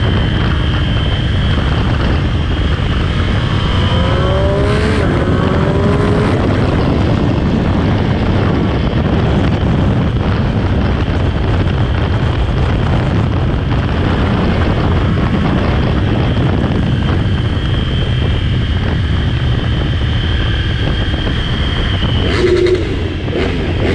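Triumph Street Triple 765 RS three-cylinder engine on its stock exhaust, running at speed on track under heavy wind rush, with a few short rising revs about four to six seconds in.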